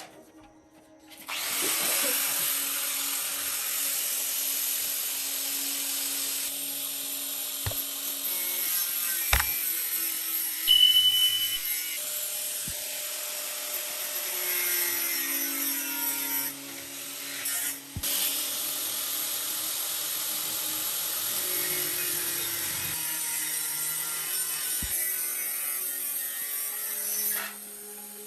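A power tool running steadily against workpiece material, making a continuous high hiss. It starts about a second in, has a few sharp knocks and a brief high squeal partway through, and stops near the end.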